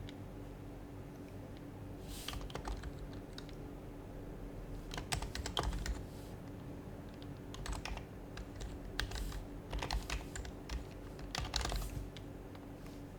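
Typing on an HHKB Professional HYBRID Type-S keyboard, its silenced Topre keys giving soft clicks in several short bursts with pauses between, over a faint steady hum.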